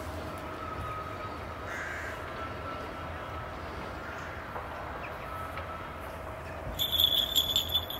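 A bird calling: a quick run of harsh, high-pitched calls near the end, over a steady faint hum.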